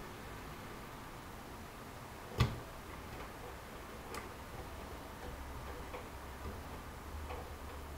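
AEG Lavamat L88489FL washing machine in its rinse stage: one sharp click a couple of seconds in, then a few fainter ticks, with a low drum-motor hum building in the second half.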